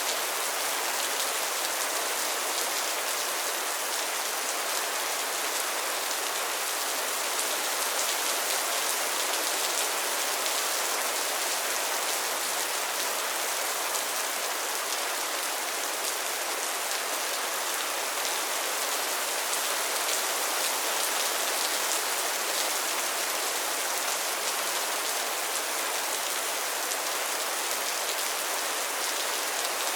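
Steady rain falling on a pond and its lily pads, a dense even patter of drops on water and leaves.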